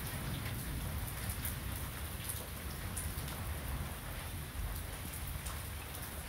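Heavy rain falling steadily, with scattered sharp drop ticks and a low rumble underneath.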